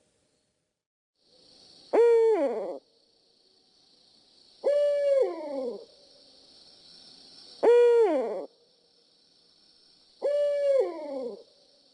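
Barred owl calling: four drawn-out hoots about two and a half to three seconds apart, each sliding down in pitch at its end.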